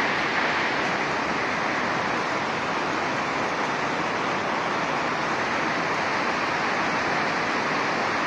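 A large waterfall's steady rush of falling water, an even noise with no breaks.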